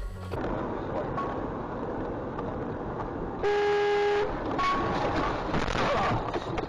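Car horn sounding once, a steady tone just under a second long, about halfway through, over steady road and traffic noise.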